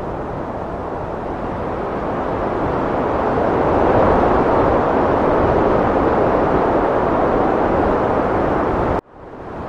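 Heavy wind blowing: a loud, steady rushing that swells over the first few seconds, then cuts out suddenly about nine seconds in and fades back up.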